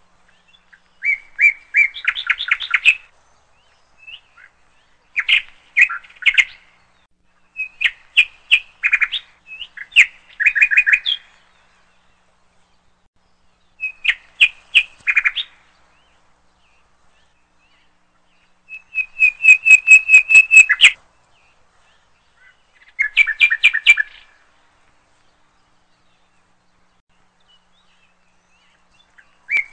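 A songbird singing in short phrases of rapid chirps and trills, about six phrases separated by pauses of one to three seconds. The loudest is a fast run of repeated notes about two-thirds of the way through.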